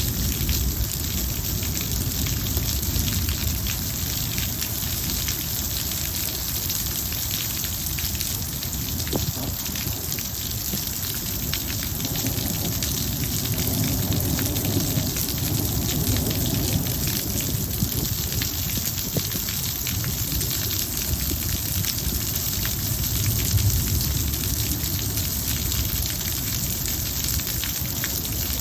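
Heavy rain falling steadily, a dense hiss with many individual drops striking hard surfaces. A low rumbling swell rises and fades around the middle, and there is another brief low swell about 24 seconds in.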